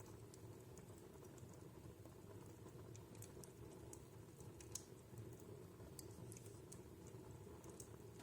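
Wood fire in a fireplace crackling faintly: irregular small pops and snaps over a low, steady hush of the burning fire, one louder pop near the middle.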